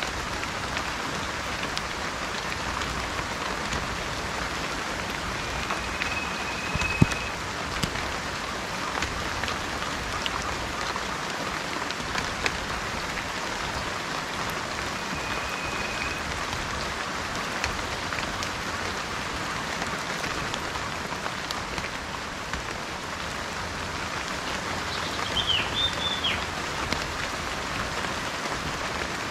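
Steady rain falling, an even hiss of drops, with a few brief high bird whistles and a quick burst of chirps near the end.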